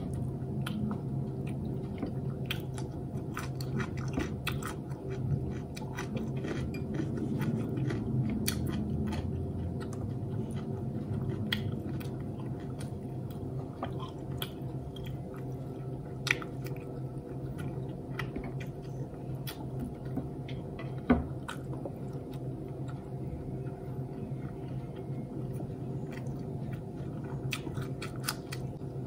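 Close-miked chewing of fried rice, fried egg and vinegar-soaked cucumber eaten by hand, with wet mouth clicks and occasional crunches over a steady low hum. There are two sharper knocks partway through.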